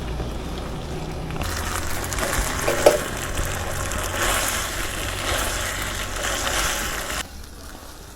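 Crackling, rustling noise of food being prepared, starting about a second in and cutting off suddenly near the end, over a low steady hum.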